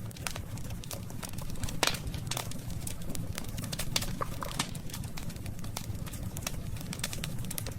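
Campfire of burning wood crackling, with frequent irregular pops and snaps over a steady low rumble; one sharper pop about two seconds in.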